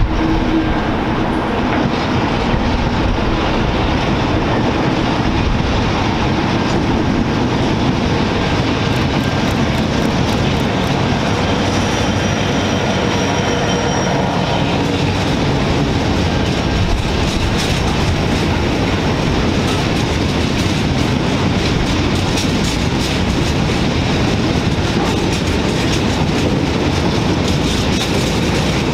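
82 class diesel-electric locomotive hauling a train of empty coal hopper wagons past at low speed: its diesel engine running as it goes by, then the steady rattle and clickety-clack of the empty hoppers' wheels over the rail joints through the second half.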